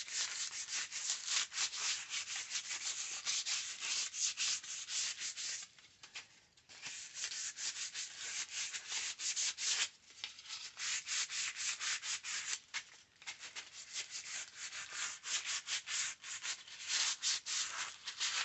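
Sandpaper scuffing a headlight trim piece in quick rubbing strokes, stopping briefly about six, ten and thirteen seconds in. It is a light scuff-sand so that paint will stick.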